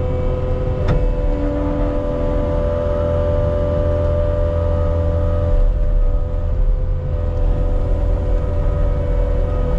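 Diesel engine of earthmoving equipment running steadily, with a steady whine over its low drone. The low end eases a little about halfway through.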